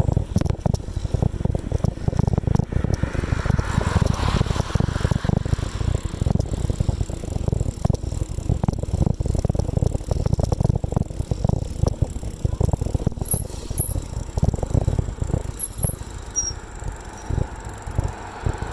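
Bicycle riding along a road: the bike rattles over the surface and wind buffets the microphone in a steady low rumble. A few brief high-pitched squeaks come near the end.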